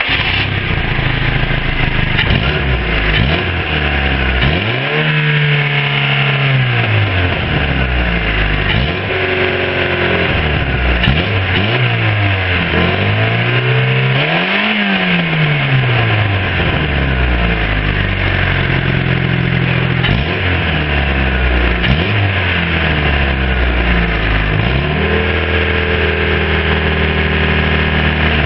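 Mazda 323's 1.3-litre 16-valve four-cylinder petrol engine running just after starting. It idles and is revved up and down several times: long swells at about 5, 11 and 15 seconds in and quick blips near 20 and 22 seconds, then it settles back to a steady idle.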